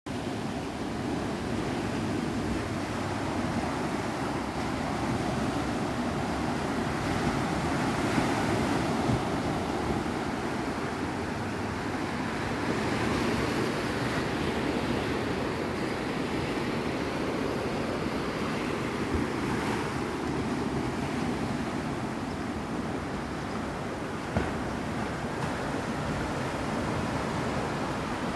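Sea surf: waves washing in steadily with a constant rushing wash that swells and eases slowly, with wind in the background.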